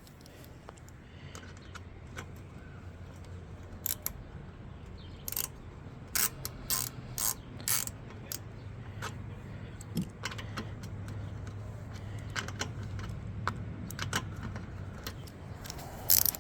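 Irregular metallic clicks and clinks of hand work on lawnmower parts, with a cluster of clicks in the middle and another near the end, over a steady low hum.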